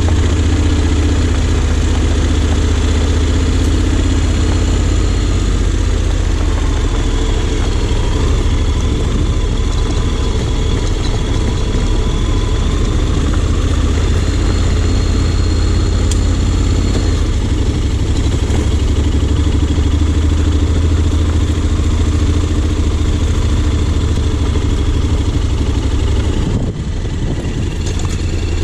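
A Honda X-ADV 750's parallel-twin engine running at low, fairly steady revs, with a short dip in loudness near the end.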